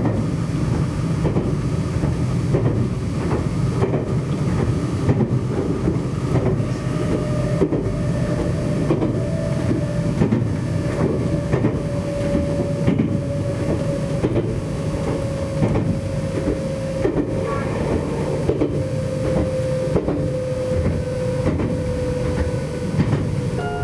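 Nagano Electric Railway limited express Yukemuri, a 1000 series electric train, running along the line, heard from inside the train: a steady rumble with wheels clacking irregularly over rail joints. A steady whine joins about a third of the way in and drops slightly in pitch near the end.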